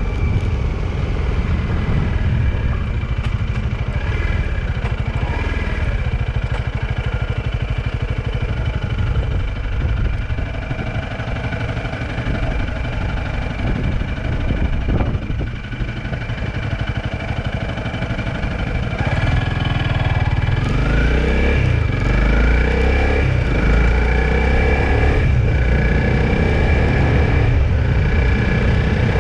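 Engine and road noise of a moving vehicle, a steady low rumble. About two-thirds of the way through, the engine's pitch rises as it accelerates.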